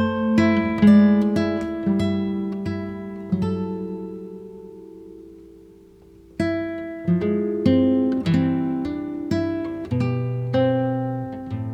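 Acoustic guitar music: plucked notes and chords, each ringing and fading, with a pause about halfway before a new phrase starts.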